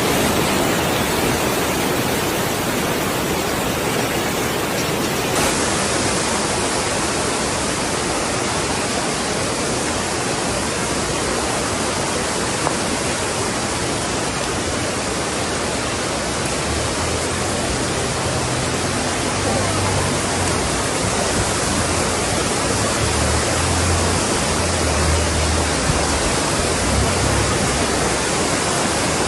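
Steady, loud rushing of water in a typhoon flood, an even hiss with no breaks; low rumbling comes and goes underneath in the second half.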